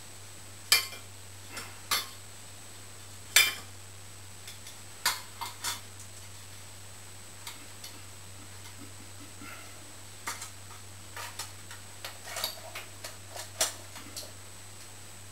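Scattered sharp clicks and small metallic clinks of tools and metal parts being handled while working on a ceiling fan-and-lamp fixture, at uneven intervals, over a steady low hum.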